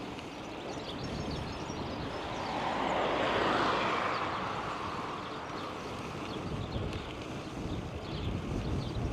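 A vehicle passing by: its noise swells to a peak about three and a half seconds in and then fades away, over a steady low background noise.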